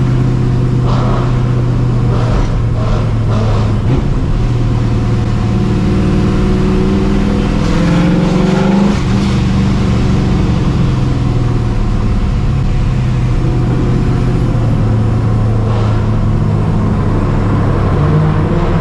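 Cammed, Procharger-supercharged 5.4-litre V8 of a 1999 Mustang GT running at low speed. The revs climb for a few seconds around six seconds in, then drop back to a steady cruise.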